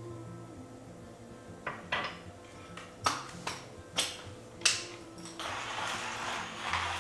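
Kitchen clatter: dishes and utensils knocking and clinking, about six sharp knocks in a few seconds, over soft background music. A steady hissing noise sets in near the end.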